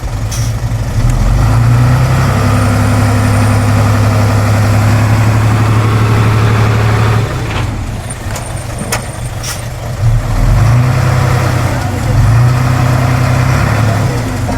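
Heavy diesel engine of earthmoving machinery running with a deep, steady drone. It eases off for a few seconds about halfway through, then picks up again. A few sharp clicks come near the middle.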